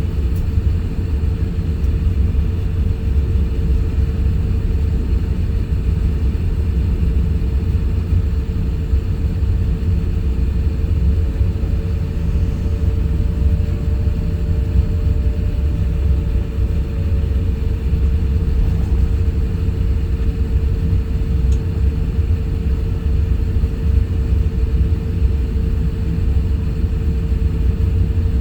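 Steady low rumble inside the cabin of an Airbus A350-1000, with a constant mid-pitched hum over it. A faint tone rises and falls for several seconds about halfway through.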